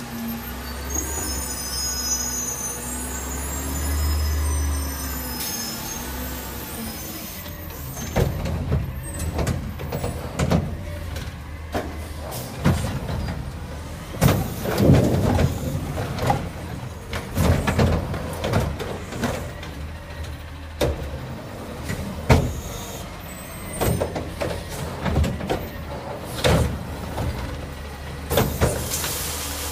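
Garbage truck collecting yard waste: the engine runs with a rising and falling pitch and a high squeal for the first few seconds. Then come many irregular bangs and thuds for the rest of the time.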